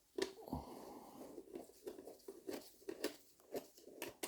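Faint small clicks, taps and rustling of hands handling motorcycle parts and fittings, several short knocks a second.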